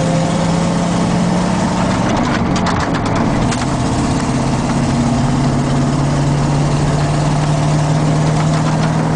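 Ford F-Series box truck's 7-litre gas V8 running steadily at highway speed, heard from inside the cab: a steady engine drone whose pitch steps down slightly about two seconds in, with some light clicking or rattling around then.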